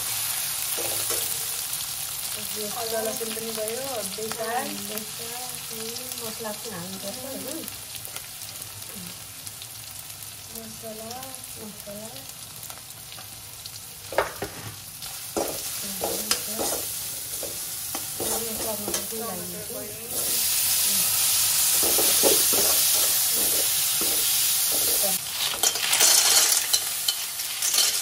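Onion, garlic and green chilli with spices frying in oil in an iron kadai, sizzling steadily, while a metal slotted spatula scrapes and clicks against the pan as the mixture is stirred. The sizzle turns louder about two-thirds of the way through.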